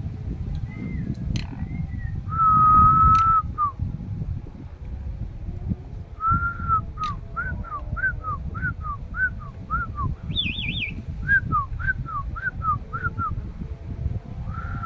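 Starling whistling song: a long steady whistled note, then runs of short rising-and-falling whistles about three a second, with a brief higher warbling trill in the middle, over a steady low rumble.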